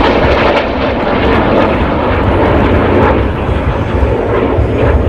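Jet engine noise from the Turkish Stars' NF-5 jets flying overhead, a loud, steady rushing sound.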